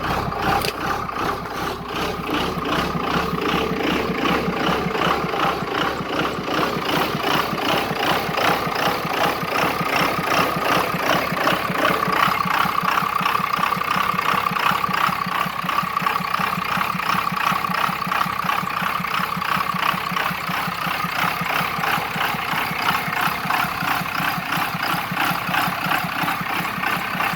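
Straight-piped P-pump 24-valve Cummins inline-six diesel idling steadily while still cold, just after a cold start following three days of sitting.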